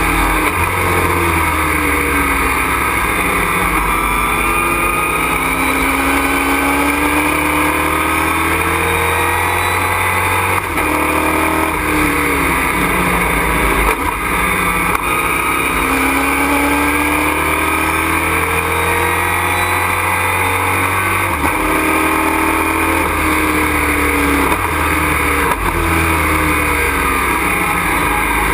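A race truck's engine heard from inside the cockpit at racing speed. Its pitch climbs under acceleration and drops off several times as it shifts or lifts for corners.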